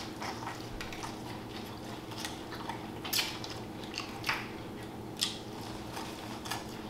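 Seafood being eaten close to the microphone: quiet chewing with half a dozen short sharp clicks or cracks at irregular intervals, the loudest a little past the middle.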